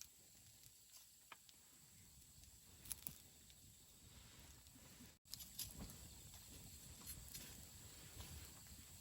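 Wood campfire crackling softly, with a couple of sharp pops about three seconds in and more scattered snaps in the second half. The sound cuts out for an instant about five seconds in.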